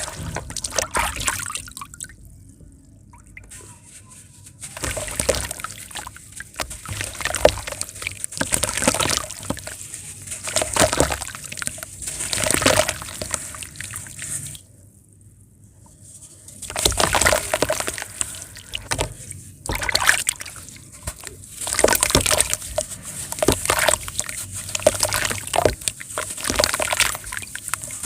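Round lumps of pure sand crumbling apart in water: irregular splashing, sloshing and crumbling bursts, with a brief lull about two seconds in and another about halfway through.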